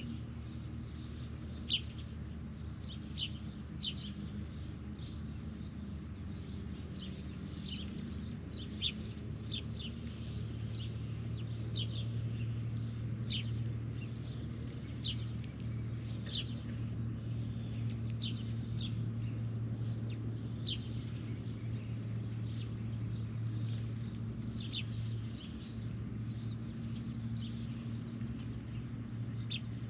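Birds chirping: short, sharp, falling chirps about once a second, over a steady low hum that swells in the middle.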